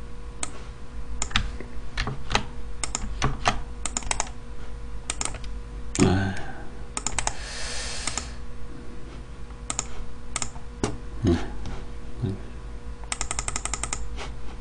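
Typing on a computer keyboard with scattered key clicks at an uneven pace, and a quick run of keystrokes near the end. A brief low sound about six seconds in, followed by a short hiss, is the loudest moment.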